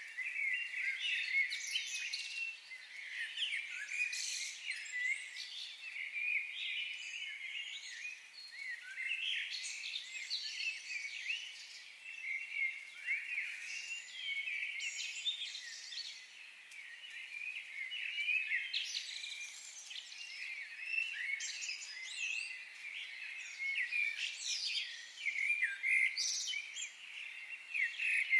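A chorus of many small birds in a forest, with dense overlapping chirps, trills and short whistles.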